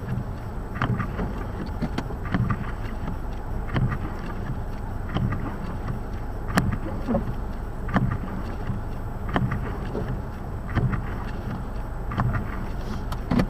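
Blizzard wind buffeting the microphone as a steady low rumble, with soft thumps recurring about every second and a half.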